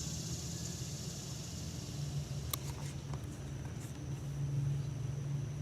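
Room tone: a steady low hum with a faint high whine, and a few faint short clicks around the middle.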